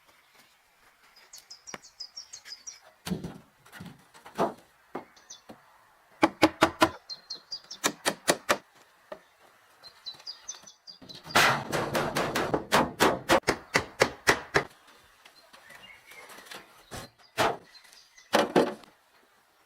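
Hand-tool blows from building work, knocking in quick runs with a dense stretch of rapid strokes in the middle and two single heavy blows near the end. Birds chirp faintly between the blows.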